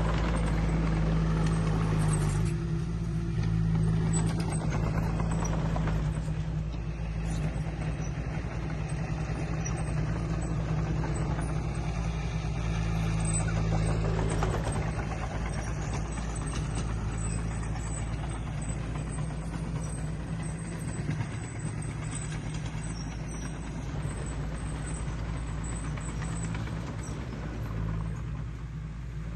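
Diesel engine of heavy earthmoving machinery running steadily under work, a little louder in the first half.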